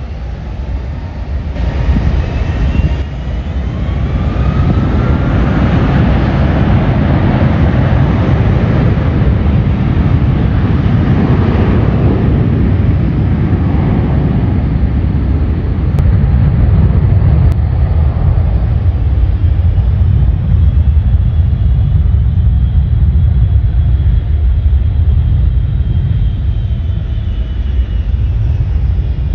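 Jet airliner engines roaring as the plane passes close by. The roar builds over the first few seconds and stays loud, with a thin engine whine that climbs at the start and drops near the end.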